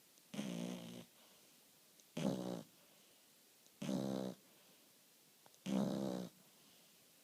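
French bulldog snoring gently while asleep: four short snores, each about half a second long, coming about every two seconds with quiet breaths in between.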